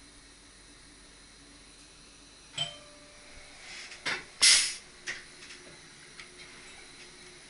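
Quiet cab of an SGM Sprinter electric train: a click with a brief ringing tone, then a short, sharp hiss of air a couple of seconds later, followed by a few light clicks.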